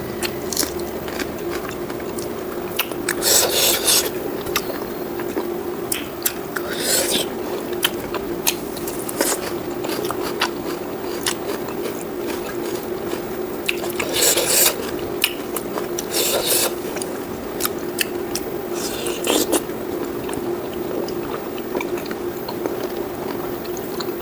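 Close-miked eating of pork curry with rice: wet chewing and mouth clicks, with about five short, louder scraping bursts spread through the stretch. A steady faint hum runs underneath.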